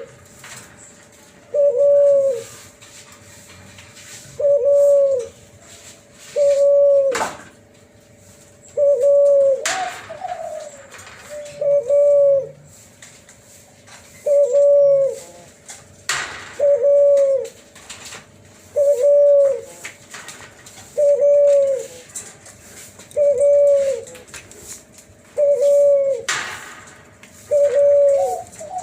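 Hybrid dove, an F1 cross of a Kelantan spotted dove and a ringneck dove, cooing in its clear, flute-like voice. It gives a regular series of single coos about every two seconds, a couple of them pitched higher and rising, with a few brief rustling noises between them.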